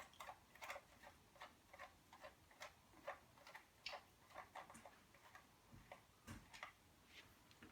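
Faint, regular ticking, about three ticks a second.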